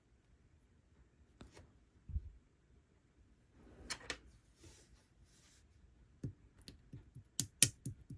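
Light-pink clear slime, gone soft and runny, being played with by hand: scattered sticky clicks and pops, a soft thud about two seconds in, a squishy stretch around the middle, and a quick run of clicks near the end.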